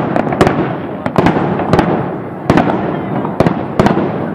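Aerial firework shells bursting in a rapid barrage: sharp bangs, often in quick pairs and clusters, one after another every half second or so.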